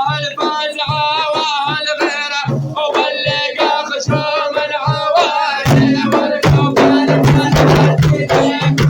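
A male voice singing an Arabic folk song over steady hand-drum beats; a little past halfway the drumming gets louder and denser and fuller instrumental accompaniment comes in.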